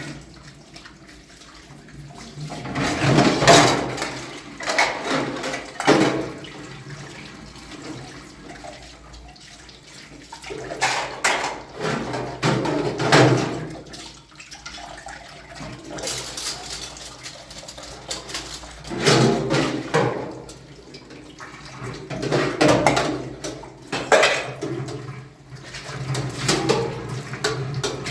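Water splashing and pouring in irregular surges a few seconds apart.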